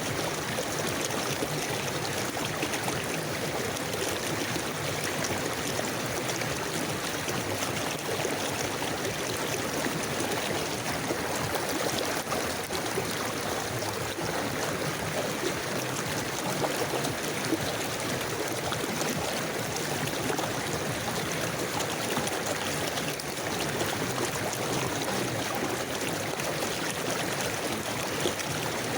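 River water flowing steadily over stones, a continuous rushing with gurgling and trickling.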